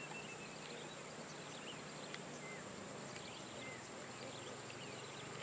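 Birds chirping in short scattered calls over a steady high-pitched insect drone and a low steady hum.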